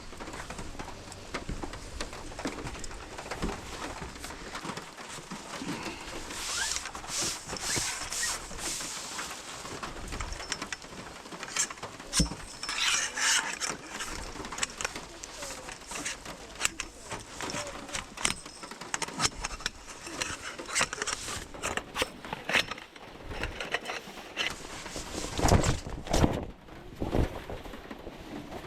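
Camping gear being handled and packed: irregular rustling with scattered clicks and knocks, the loudest knocks near the end.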